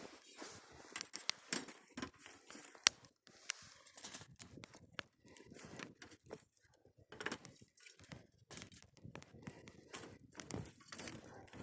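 Wood campfire crackling, with irregular sharp pops and snaps, one loud pop about three seconds in.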